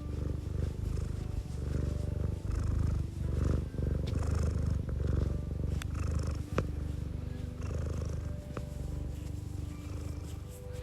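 Domestic cat purring close up, a steady low rumble that swells and fades in waves. A few small clicks come around the middle.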